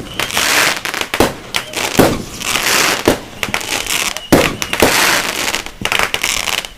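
Fireworks display: shells bursting with sharp bangs about once a second, each followed by a crackling hiss of sparks.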